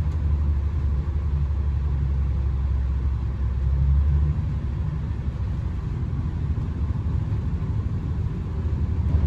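Cabin sound of a Class 220 Voyager diesel train on the move: a steady low rumble from the underfloor diesel engine and running gear, heard from inside the carriage. The deepest part of the drone eases off about four seconds in.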